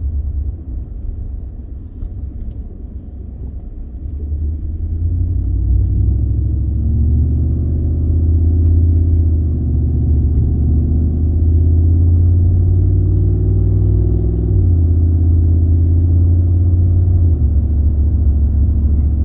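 A 2015 Ford F-150's 5.0 L Coyote V8 pulling under acceleration, heard from inside the cab. The engine note grows louder and climbs slowly, then drops sharply about two-thirds of the way through and again near the end as the automatic transmission upshifts. It holds throttle with no hesitation, a sign that the idle-back-down fault is cured after the throttle body replacement.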